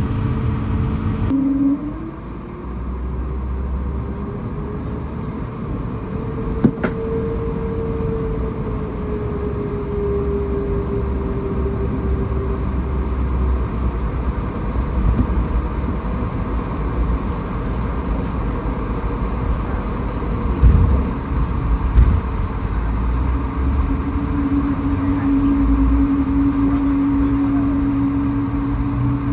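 Cabin noise of an Airbus A220-300 with its Pratt & Whitney PW1500G geared turbofans running. The engine hum rises in pitch, holds, then falls away, and a steady lower tone comes in near the end. Two short thumps come about a second apart past the middle.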